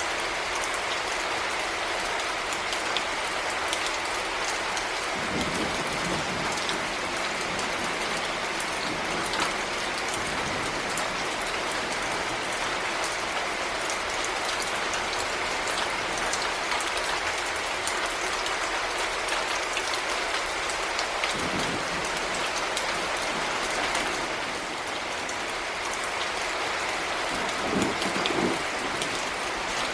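Heavy rain falling steadily, a dense even hiss of drops. A few short low thuds come through it, the loudest near the end.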